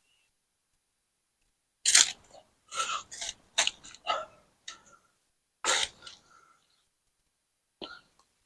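Garden shovel working soil, a series of about seven short gritty scrapes and scoops with gaps between them, the loudest about two seconds in and again near six seconds.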